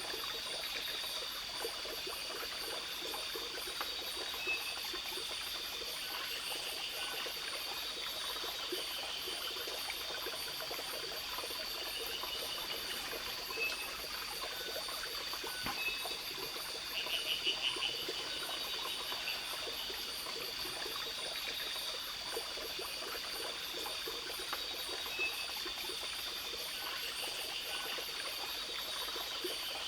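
Forest ambience: a trickling stream, with steady high insect trilling throughout. Short chirps come every few seconds, and a brief rapid pulsed call sounds a little past halfway.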